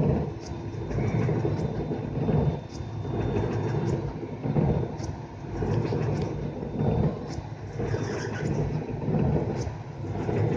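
Steady low rumble of a suburban electric local train, heard from its driving cab. It swells and fades about every second or so.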